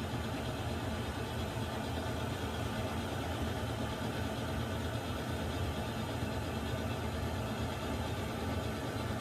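Water heater running: a steady low rumble with an even hiss over it, unchanging.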